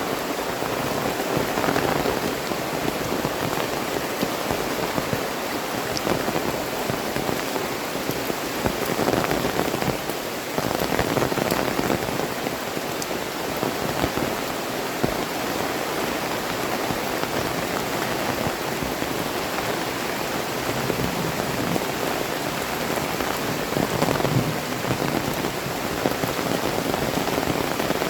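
Heavy rain falling steadily as a dense, even hiss, swelling a little now and then.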